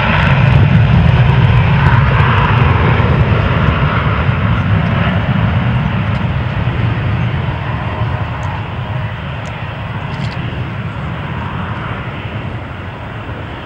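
Takeoff-power jet noise from a McDonnell Douglas MD-87's rear-mounted Pratt & Whitney JT8D turbofans: a loud, deep rumbling roar that fades steadily as the airliner departs and climbs away.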